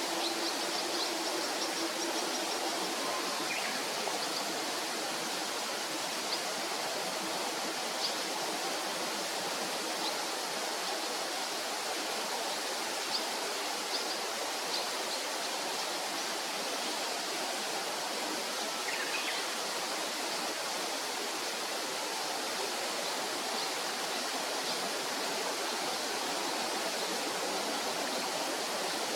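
Steady rushing noise with a few faint, short, high bird chirps scattered through it.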